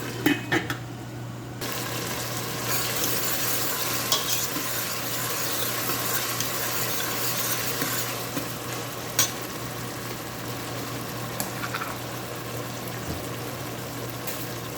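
Chopped tomatoes and onions sizzling in hot oil in a pot, stirred with a spoon that knocks against the pan now and then. The sizzle sets in a little under two seconds in, after a few sharp knocks.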